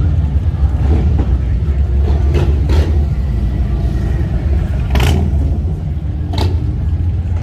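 Many motorcycle engines running and revving in heavy street traffic, a steady deep engine sound with a few short sharp sounds on top, the loudest about five seconds in.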